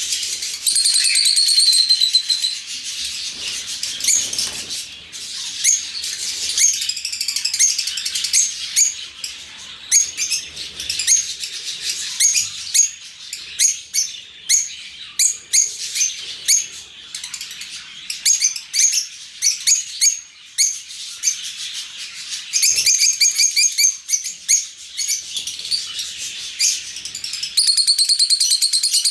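A flock of lovebirds chattering: a constant mix of high, shrill chirps and squeaks, with bursts of loud, rapid shrieking calls about a second in, again about three-quarters of the way through, and near the end.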